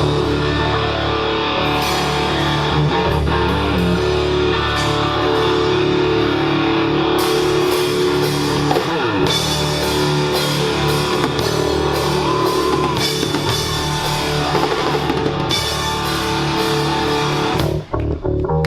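Live rock band playing loudly: electric guitar, bass and drum kit with cymbals. Near the end the band breaks into short stop-start hits.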